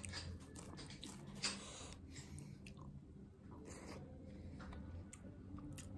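Close-up chewing and wet mouth smacks of a person eating dhido, a thick Nepali flour porridge, with mutton curry by hand. Scattered short clicks run throughout, with one sharp smack about a second and a half in, over a steady low hum.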